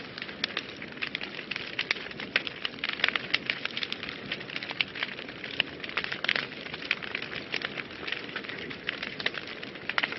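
Wood fire burning in a fireplace: constant dense crackling and popping over a soft steady hiss.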